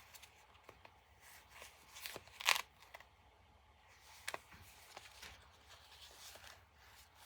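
Paper and fabric pages of a handmade journal being handled and turned: soft rustles and light taps, with a louder rustle about two and a half seconds in.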